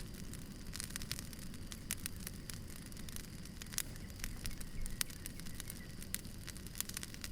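Wood fire crackling: frequent irregular sharp pops and snaps over a low steady rumble of burning logs.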